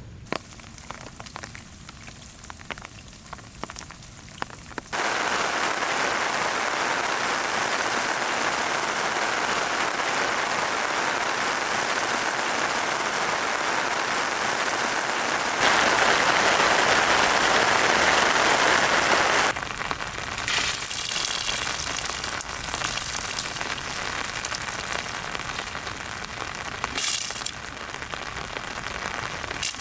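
Heavy rain pouring down in a sudden downpour. It starts quieter with scattered drop ticks, then comes in dense and loud about five seconds in. The loudness and texture change abruptly a few times.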